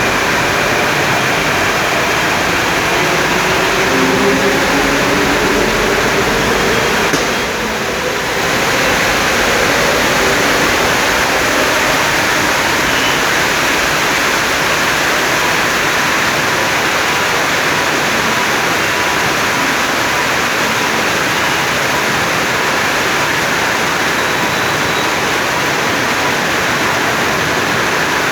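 Steady heavy rain, a dense even hiss, with a faint hum rising in pitch a few seconds in and a brief lull about eight seconds in.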